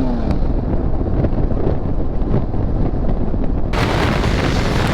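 Motorcycle engine dropping in pitch as it is shifted into neutral while riding, falling to idle under the rumble of wind and road noise. Near the end, a sudden rush of wind noise hits the microphone.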